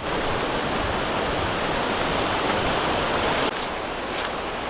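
Steady rush of running water, an even hiss and roar that dips slightly about three and a half seconds in.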